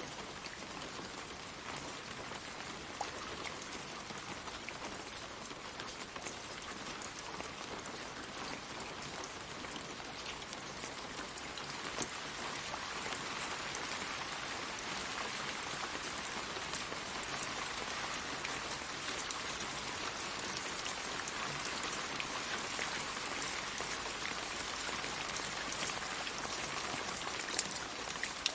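Steady gentle rain falling on leaves and the ground, with scattered individual drops ticking; it grows slightly heavier about halfway through.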